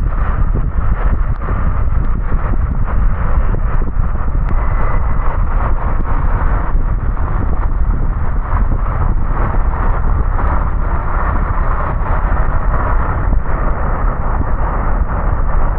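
Car driving on wet roads: steady, loud low road and engine rumble with tyre hiss and wind buffeting on the action camera's microphone, and scattered sharp ticks of rain striking.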